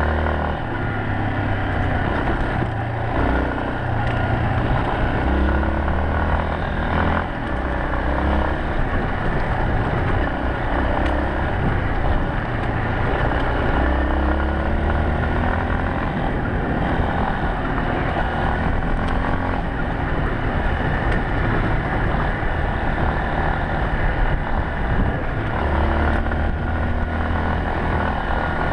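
Yamaha Serow 250's air-cooled single-cylinder four-stroke engine running as the motorcycle is ridden, steady and loud, with the revs rising and falling a few times.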